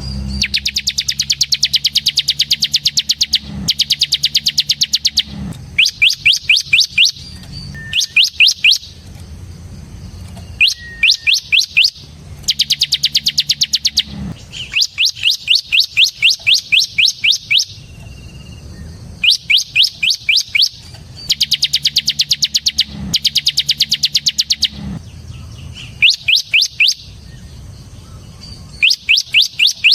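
Bar-winged prinia (ciblek) singing in its fast drilling trill: bursts of a second or two of rapid, high repeated notes, with short pauses between them, over a low steady hum.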